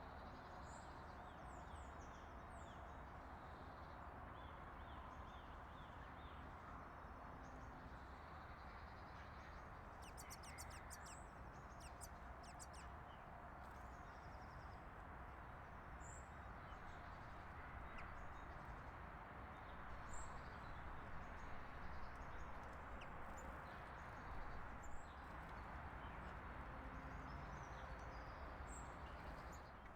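Small birds chirping faintly and intermittently in short high calls over a steady hiss of outdoor background noise, with a quick run of sharp clicks about ten seconds in.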